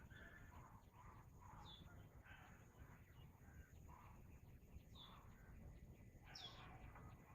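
Faint birds calling: short, high, falling chirps about three times, over other repeated bird calls and a low steady background rumble.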